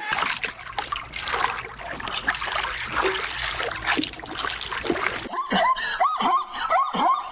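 Water splashing and sloshing for about five seconds, then an abrupt switch to an animal's rapid short, high calls repeating several times a second.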